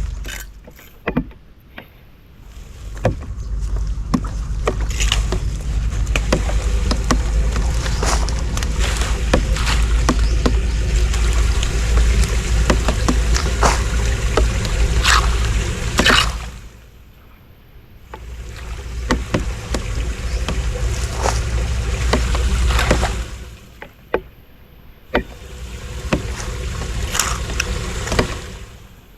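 Floodwater sloshing and splashing in swells a few seconds long, with scattered knocks and scrapes.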